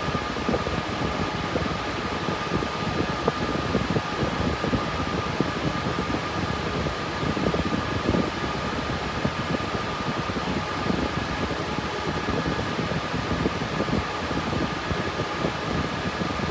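GPU cryptocurrency mining rig with RTX 3060 Ti graphics cards running under load, its cooling fans making a steady whoosh with a faint, steady high whine.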